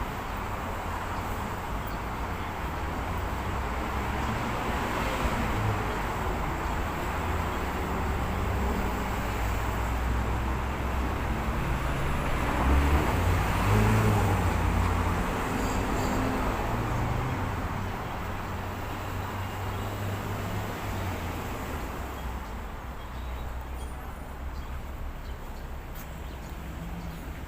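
Steady street traffic noise with a low rumble of passing vehicles, swelling louder about halfway through.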